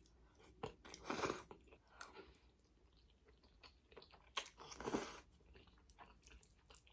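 A person chewing food close to the microphone, with soft wet mouth clicks throughout and two louder bites or slurps, about a second in and again near five seconds.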